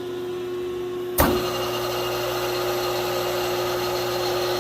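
The steady hum of a rotary phase converter, then a sharp click about a second in as a rebuilt 5 hp three-phase electric motor with new bearings is switched on; the motor comes up to speed almost at once and runs on with a steady, nice and quiet hum.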